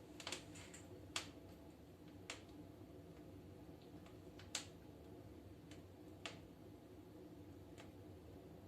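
Wood burning in a fireplace stove, giving off sparse, irregular sharp crackles and pops over a low hum.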